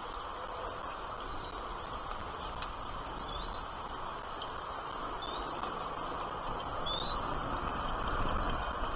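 A bird gives four high whistled notes over steady background noise. Each note rises and then holds level, the longer ones lasting about a second.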